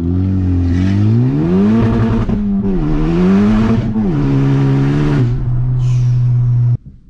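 2019 Honda Civic Type R's turbocharged 2.0-litre four-cylinder, running with the exhaust removed behind a catless downpipe, heard from inside the cabin. The loud engine note climbs and drops back three times, then holds a steady drone and cuts off suddenly near the end.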